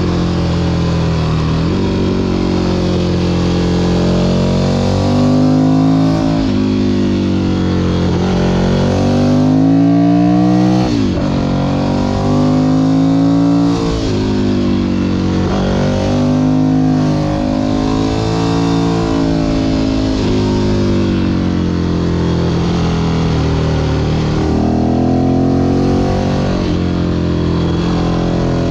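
Ducati Monster 1100 EVO's air-cooled L-twin engine on an aftermarket exhaust, heard from the rider's seat while riding. It repeatedly revs up under throttle and drops in pitch at gear changes or when the throttle closes, with a sharp drop about eleven seconds in. Wind noise sits under it.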